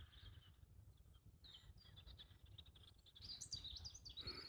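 Faint birdsong: scattered short, high chirps, busier near the end, over a faint low rumble.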